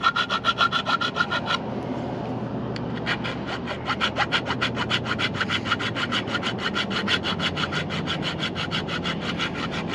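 Saw cutting metal strut channel in fast, even strokes, about seven a second. The strokes stop about one and a half seconds in and start again a second and a half later.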